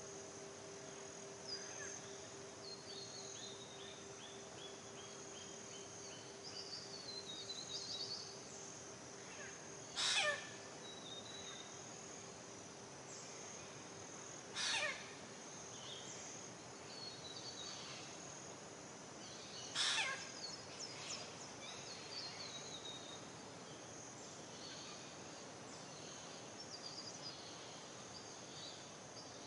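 Birds chirping and trilling over a steady background hiss, with three short, louder calls about ten, fifteen and twenty seconds in.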